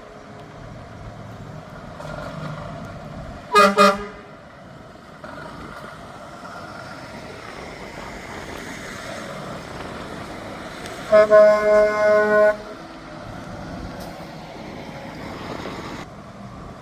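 Departing trucks' horns sounding over passing engine noise: a short double blast about three and a half seconds in, then a longer, pulsing blast near the middle.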